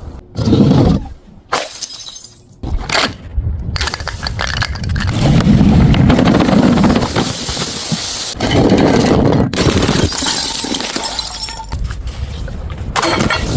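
Glass bottles shattering on impact, one crash after another: three short crashes in the first few seconds, then a long stretch of crashing, crunching glass, and more crashes after that.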